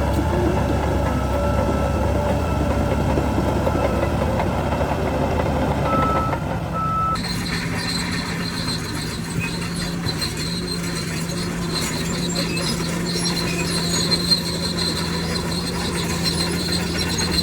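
Heavy diesel earthmoving machinery running with a deep engine rumble. About seven seconds in the sound changes abruptly to a lighter, steady hum with a high steady tone and scattered clicks.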